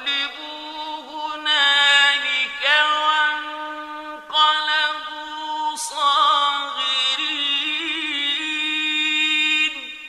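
A male voice reciting the Quran in the melodic, drawn-out mujawwad style, holding long ornamented notes that waver in pitch. There are several long phrases with brief breaks between them, and the voice fades near the end.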